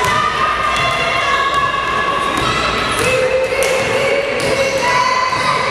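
Basketball game sounds in a gym: a ball bouncing and thudding on the hardwood, under shouting voices from players and spectators in a large, echoing hall.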